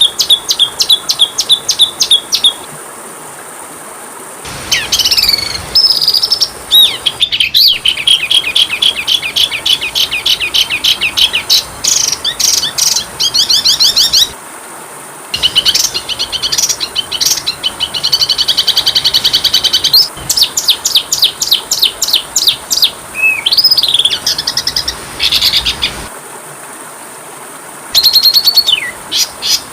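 Oriental magpie-robin (kacer) song in rapid phrases of repeated chips, fast trills and swooping whistles. The phrases are cut off abruptly three times by pauses of one to two seconds, and a steady high-pitched hiss runs underneath.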